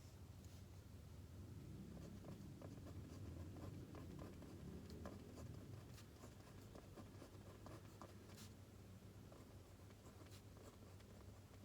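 Faint scratching of writing on paper, with scattered light ticks.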